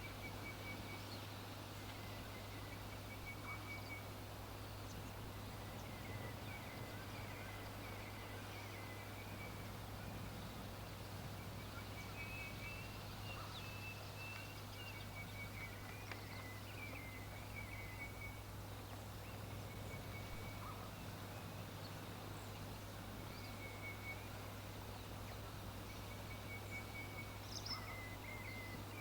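Birds calling in short, rapid trills and chirps that repeat every couple of seconds, over a steady low hum.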